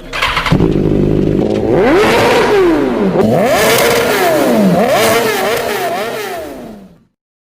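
Honda CBR1000RR-R inline-four motorcycle engine revving, its pitch climbing and falling several times. The sound cuts off suddenly about seven seconds in.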